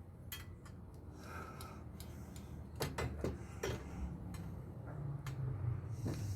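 A handful of sharp clicks and knocks from small metal parts of an air-conditioner blower being handled and set down, over a low steady hum.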